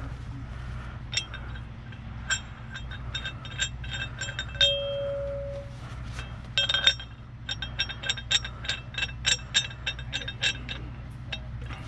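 Metal rigging hardware, chain and shackles, clinking and rattling in quick irregular runs over a steady low engine hum. A short steady tone sounds for about a second partway through.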